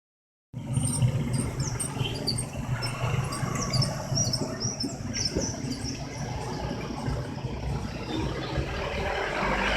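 Road traffic with motor vehicle engines running at a low steady hum, with small birds chirping over it in the first half. The traffic noise swells near the end as a vehicle comes past.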